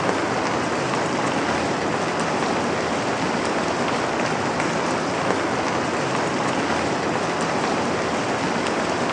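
Steady rain falling on a surface, an even hiss with faint scattered drop ticks and no change in level.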